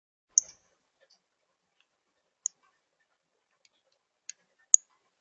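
Sharp, high, single chip calls from a small songbird, four clear ones at irregular intervals with two close together near the end, and a few fainter ones between.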